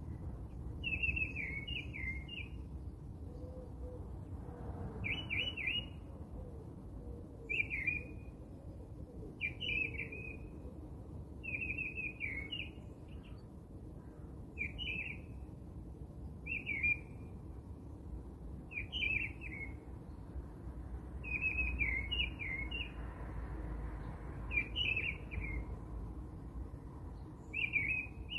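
A bird chirping: short bursts of quick high notes repeat about every two seconds, over a low steady background.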